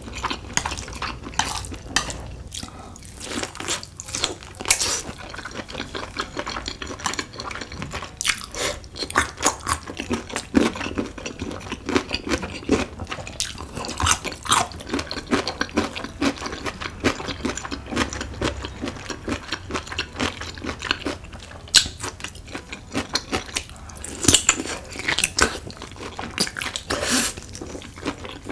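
Close-miked eating sounds: wet chewing and slurping of cheesy spicy stir-fried ramen noodles, made up of many short, irregular sticky clicks and smacks.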